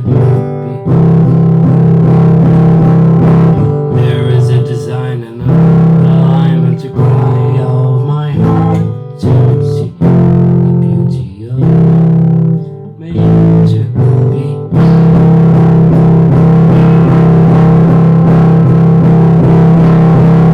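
Guitar-led music: plucked guitar chords with bass, ringing out and breaking off every second or two, then one long held passage for the last quarter.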